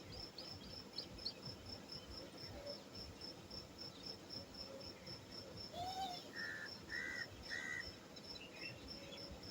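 Cricket chirping steadily in a high, even pulse of about four chirps a second. Around the middle, three short calls and a brief curved lower note from another animal sound over it.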